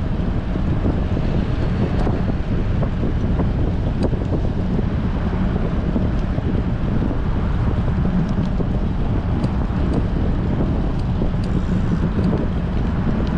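Strong wind buffeting the microphone of a bicycle-mounted action camera while riding: a steady, heavy low rumble with a few faint ticks.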